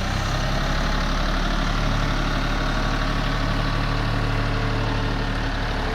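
Engine idling steadily at a constant pitch.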